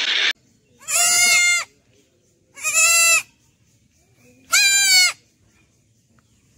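Young goat bleating three times. Each call is high-pitched, wavering and under a second long, with about two seconds between them.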